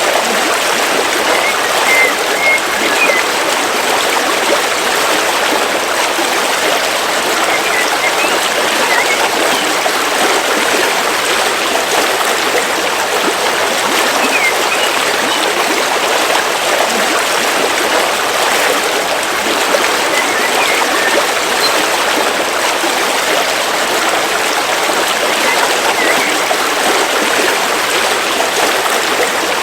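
River water flowing over stones in a steady, even rush, with faint short bird chirps now and then.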